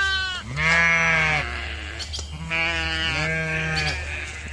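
A lamb bleating, four high quavering bleats, one right at the start and three more about half a second, two and a half and three and a quarter seconds in.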